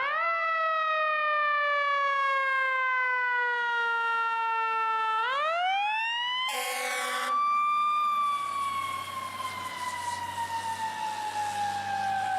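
Fire truck siren wailing: it winds up quickly, falls slowly over about five seconds, then winds up again and slowly falls. A short, loud horn blast cuts in about six and a half seconds in, and a low engine hum runs under the later part.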